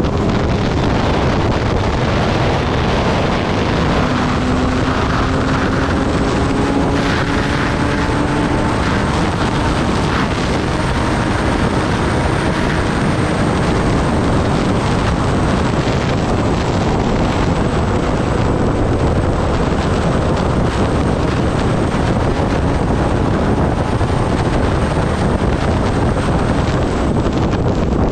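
Wind rushing over the microphone on a moving Kawasaki Ninja ZX-10R, with the bike's inline-four engine note faintly under it, rising slowly in pitch for several seconds early in the stretch.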